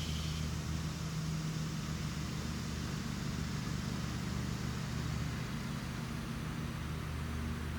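Steady low mechanical hum with an even hiss over it; a high buzz fades out just after the start.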